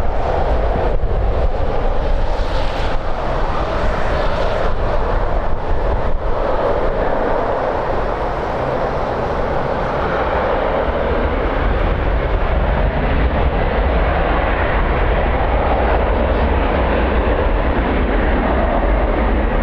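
Jet airliner engines, a loud, steady rush of engine noise with a deep rumble underneath, sustained as the aircraft passes.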